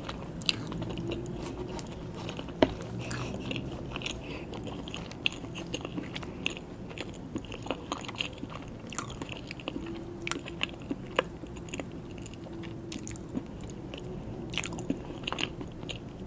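A person chewing soft mini cakes with buttercream, with frequent small mouth clicks and one sharper click between two and three seconds in.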